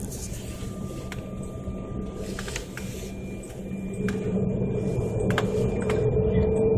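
Aircraft engines heard from inside the cabin: a steady low rumble, with an engine whine that rises slowly in pitch and grows louder from about four seconds in, as the engines spool up. There are a few light clicks and rattles.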